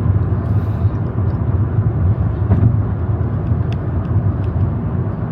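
Steady low rumble inside a car from its running engine, with a few faint ticks.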